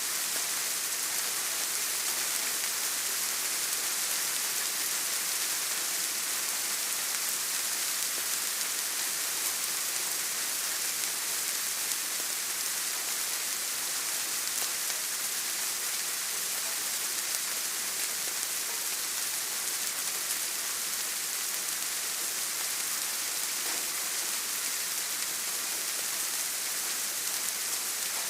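Steady rain falling, an even, constant hiss strongest in the high range, with no single drops or other events standing out.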